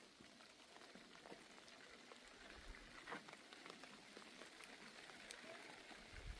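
Faint patter of light rain, with scattered small drip ticks.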